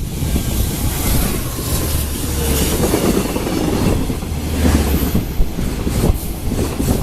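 Container freight train hauled by a JR Freight EF210 electric locomotive passing at speed: a loud, continuous rumble of wheels on rails with clicks of the wheels over the rail joints.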